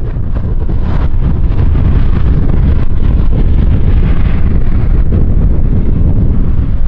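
Loud, steady low rumble of wind buffeting the microphone, swelling in at the start and then holding.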